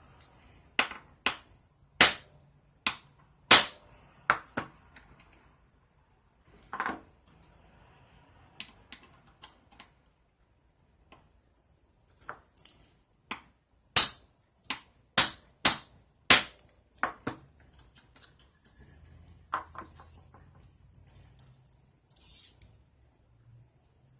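Irregular sharp clicks and taps of small hard parts and tools being handled, in two bunches of quick clicks, with a couple of knocks that ring briefly and a short scraping rattle near the end.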